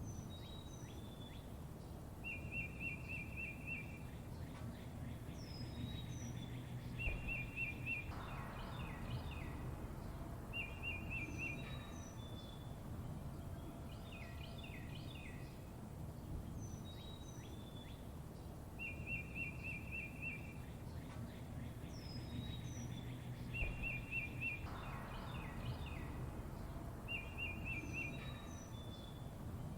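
Songbirds chirping over a low steady rumble: short whistled chirps and downslurred notes, with a rapid trill of evenly repeated notes coming back several times. The whole pattern repeats about every 16 seconds, as a looped recording.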